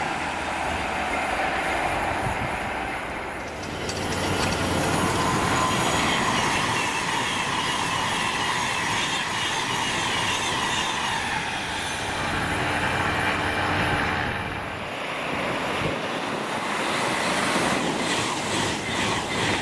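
Electric express passenger trains, a Class 390 Pendolino among them, rushing past at speed one after another, with steady wheel-on-rail noise. The sound changes abruptly about 4 and 15 seconds in as one passing train gives way to the next.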